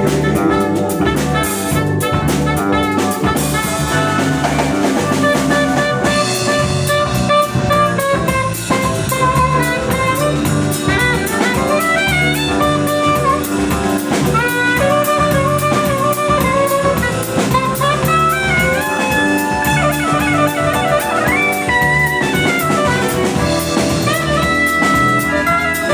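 Instrumental jazz from a quartet: a horn plays a melodic solo over drum kit and a bass line.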